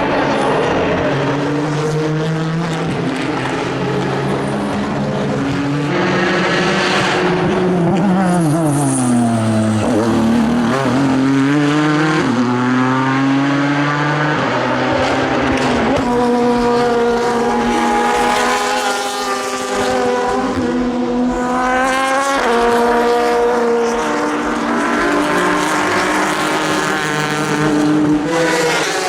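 Ford GT GTE race cars' twin-turbo V6 engines running hard at racing speed. The pitch climbs and steps up through gear changes several times, with a falling sweep about ten seconds in as a car goes by.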